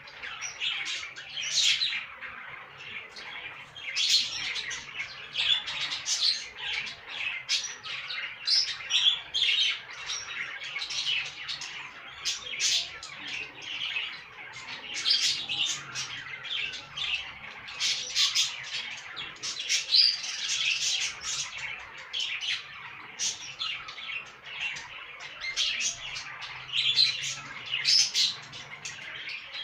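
Budgerigars chattering and squawking: a continuous run of quick chirps and harsh calls.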